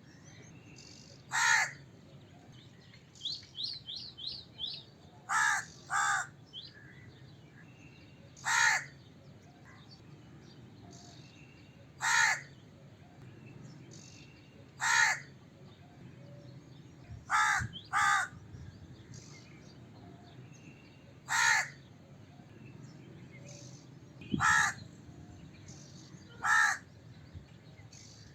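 A crow cawing: about eleven single harsh caws spaced a few seconds apart, twice coming as a quick pair.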